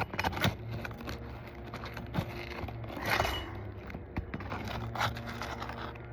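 Scraping and sharp clicks of a roof snake nail-removal tool worked under asphalt shingles, hooking a roofing nail to pull it free.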